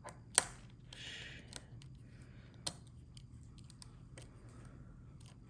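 Small metal parts of a fidget toy being handled and fitted together: a sharp click about half a second in, a brief scrape just after, another click near the middle, and light scattered ticks.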